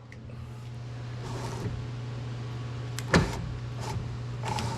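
1961 Cadillac Series 62 power window motor running, driving the glass, with a steady hum. A sharp click comes about three seconds in.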